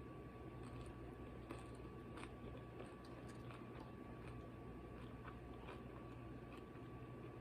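Faint chewing and biting of food, with scattered soft crunches and mouth clicks, over a steady low hum.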